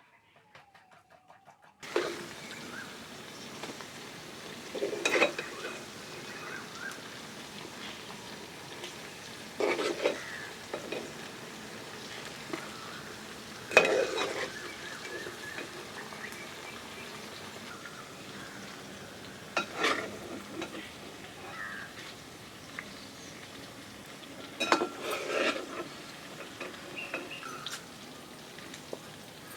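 Food frying in oil in a pan, with a steady sizzle that starts about two seconds in. It is stirred with a metal utensil, which scrapes and clatters against the pan in short bursts about every five seconds.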